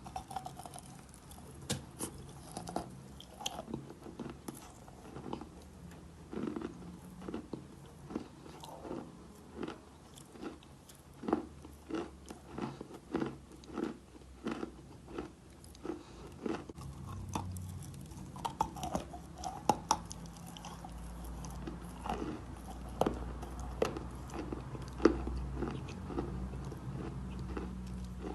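Chalk being bitten and chewed close to the microphone: crisp crunches repeating at a steady chewing rhythm of about two a second.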